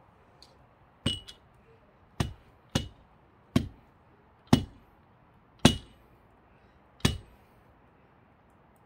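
Seven sharp metal-on-metal strikes, roughly a second apart, each with a short high ring: an axe head wedged in a thick pine log being driven with blows to split it.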